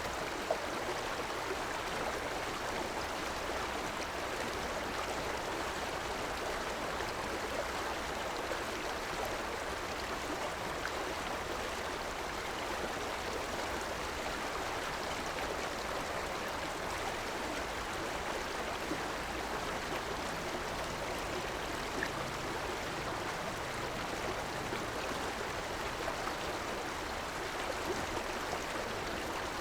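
A river flowing over rocks: a steady rush and babble of water, even throughout.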